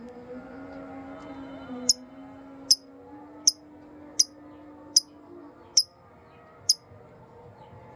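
Lovebird giving a string of seven short, sharp chirps, evenly spaced at a little under one a second, over a faint steady low hum.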